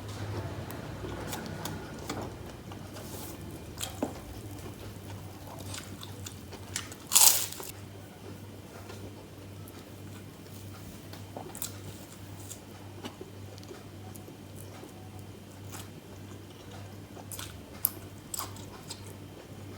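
A person eating close to the microphone: chewing with scattered crunchy bites, and one loud crunch about seven seconds in. A steady low hum sits underneath.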